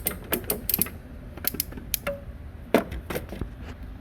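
Irregular sharp clicks and clacks of small plastic and metal parts being handled, about a dozen in all, the loudest near three seconds in.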